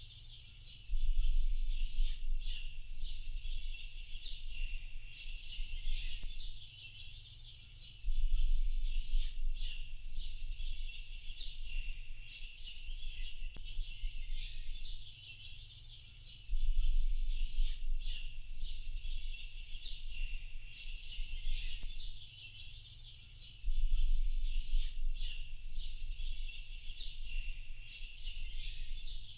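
A dense chorus of small birds chirping and twittering without a break. A deep low rumble comes in abruptly four times, for about six seconds each time, and is the loudest part of the sound.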